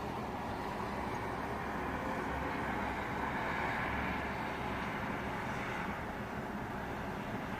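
Steady rushing noise of a thunderstorm's rain and wind, swelling a little about three seconds in and easing slightly near the end.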